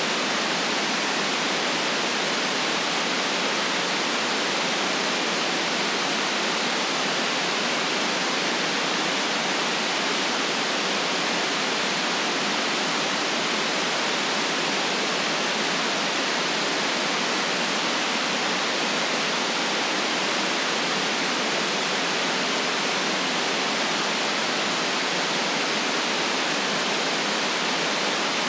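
Steady synthetic white noise: an even, unchanging hiss with no deep rumble, cut off above the upper treble.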